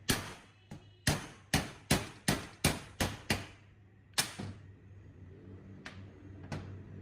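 Hammer striking metal in a quick series of about nine blows, roughly three a second, each with a short ring, stopping about four seconds in. Two light taps follow near the end.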